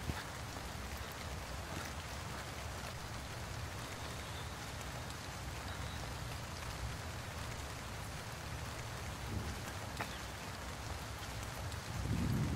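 Steady rain falling on wet pavement, an even hiss with faint scattered drop ticks over a low rumble. A brief, louder low rumble comes near the end.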